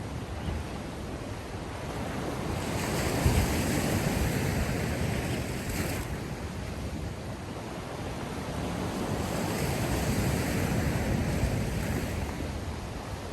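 Sea surf: waves washing in, swelling and easing twice with about six seconds between peaks.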